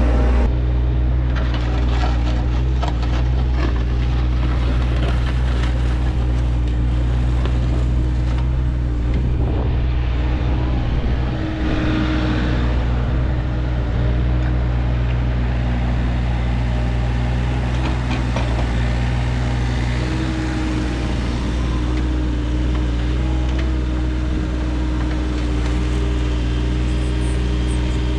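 Engine of a piece of landscaping equipment running steadily at a constant speed, with scattered clanks and scrapes from the work.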